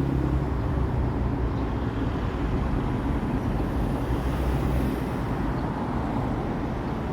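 Steady rumble of road traffic, with a motor's hum fading out about half a second in.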